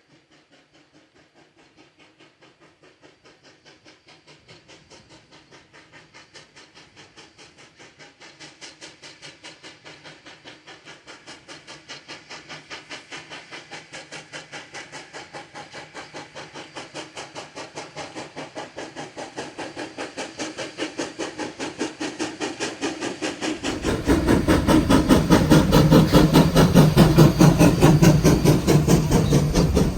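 Sierra No. 3, a 4-6-0 steam locomotive, working steam with a fast, even beat of exhaust chuffs and hiss. It grows steadily louder as it approaches, then turns much louder and fuller about twenty-four seconds in.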